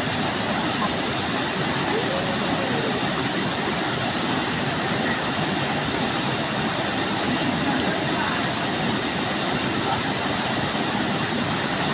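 Waterfall water rushing in a steady, unbroken roar, with faint voices now and then.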